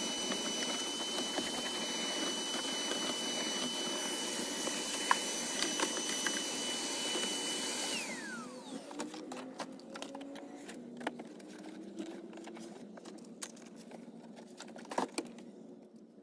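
A small electric motor running at speed with a steady high whine, switched off about eight seconds in and winding down, its whine falling in pitch; then scattered light clicks and knocks.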